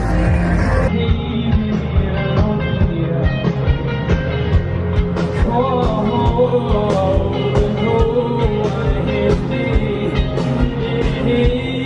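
Live rock music with a singer, a band playing through a large festival sound system. About a second in the sound turns duller, its top end cut off.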